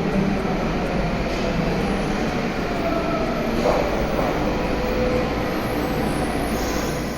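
Train running steadily, a continuous rumble with faint drifting whines.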